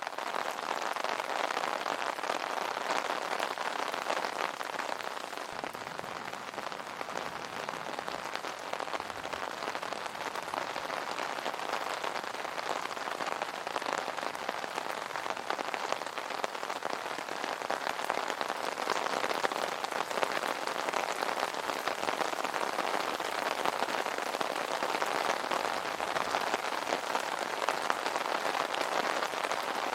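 Steady rain falling on an umbrella, a dense even hiss of rain with many small drop ticks.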